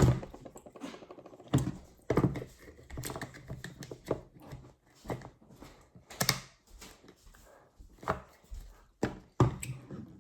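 Plastic toy figures and pieces being handled and set down, with irregular clacks and thunks on a hard surface.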